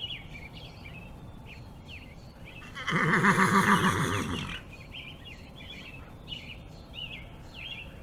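A horse whinnies once, a loud quavering call lasting about a second and a half, over birds chirping in the background.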